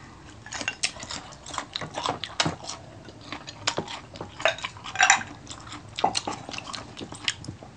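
Close-up chewing with irregular crisp crunches and clicks, as a fresh cucumber slice and crispy fried chicken feet are bitten and chewed.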